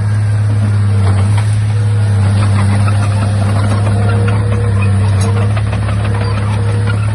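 Komatsu D31A crawler bulldozer's diesel engine running steadily at a constant low pitch, with a faint higher whine that comes and goes.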